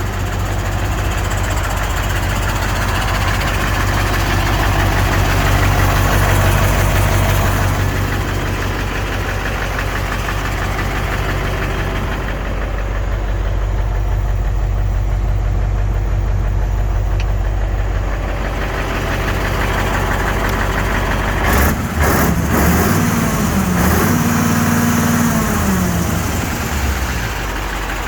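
Mercedes-Benz SK 2635 truck's diesel engine idling steadily. About two-thirds of the way through there are a few sharp clicks, then the engine note briefly rises and falls again.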